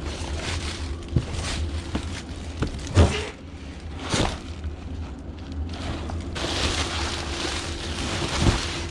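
A few scattered knocks and clatters, with a rustling hiss near the end, over a low steady rumble: someone moving about among dumped rubbish and handling it.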